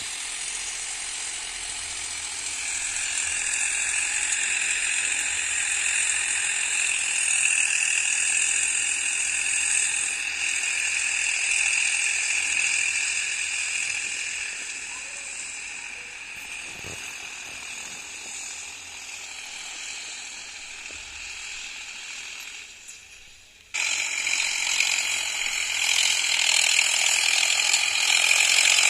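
Solis 5015 tractor pulling a harrow, with a steady metallic rattling and clatter from the machinery working. The sound fades a little, then comes back sharply louder about 24 seconds in.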